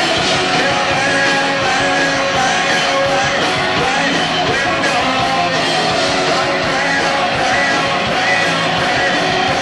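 Loud live punk rock band playing: distorted electric guitar, bass and drums with sung vocals, recorded from the audience on a cassette recorder, so the sound is dense and somewhat muddy.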